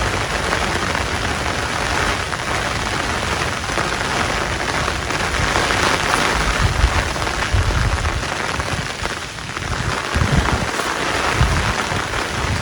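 Heavy rain falling steadily as a dense, loud hiss, with a few low rumbles along the way.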